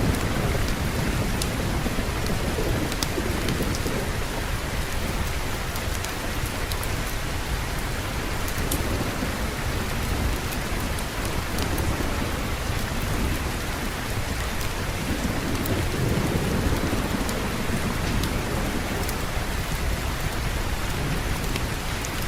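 Steady rain falling, with low rolling thunder that swells and fades several times, strongest about two-thirds of the way through. A few faint sharp clicks sound here and there.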